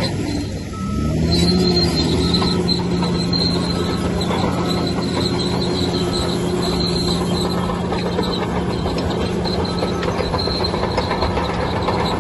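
Bulldozer diesel engine running under load, dipping then rising in pitch about a second in. Squealing and clanking from the steel crawler tracks run through it.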